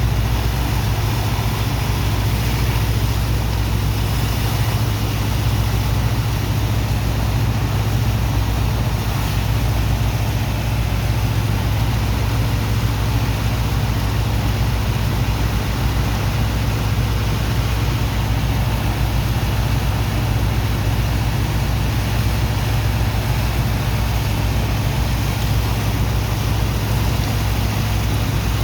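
The engine of a sand-unloading dredge pump runs steadily with a deep, constant hum, under an even rushing noise of pumped water and sand.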